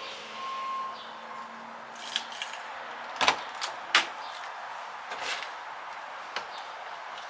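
Keys jangling with several sharp clicks and knocks, the loudest about three and four seconds in; no engine running.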